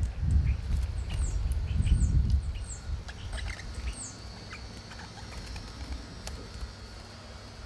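Wild birds chirping: several short, high calls that slide downward, mostly in the first four seconds, with smaller chirps between them, over a low rumble that fades about two and a half seconds in.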